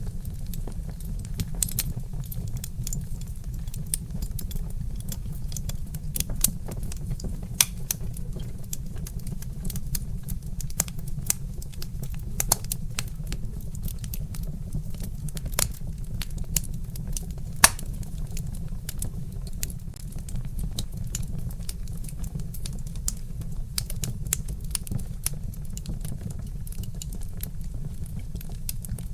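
Wood fire in a fireplace crackling: irregular sharp pops and snaps, one louder snap a little past halfway, over a steady low rumble.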